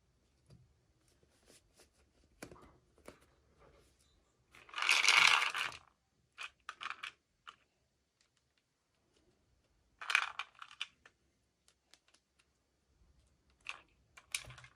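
Toy packaging being handled and opened: scattered light clicks and taps, a noisy rustle lasting about a second around five seconds in, and a shorter one around ten seconds.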